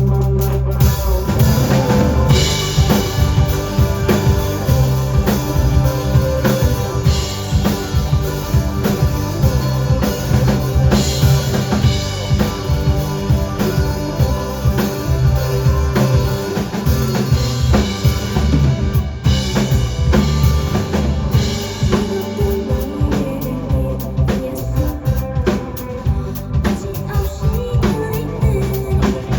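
Live rock band playing an instrumental passage: a drum kit with bass drum, snare and rimshots keeps a steady beat under bass and organ-like keyboard chords, with no singing yet.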